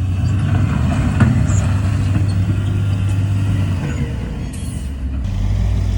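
Heavy diesel engine of earthmoving machinery running at a low, steady pitch, with a sharp clank about a second in. The engine eases off around four seconds in and picks up again near five.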